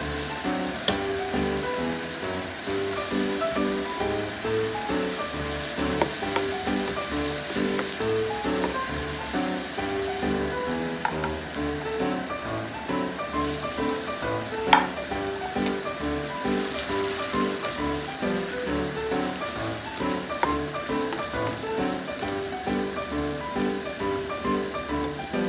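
Diced onions and tomatoes sizzling steadily in hot oil in a frying pan, with a few sharp knocks, the loudest about halfway through. Background music with a steady beat plays underneath.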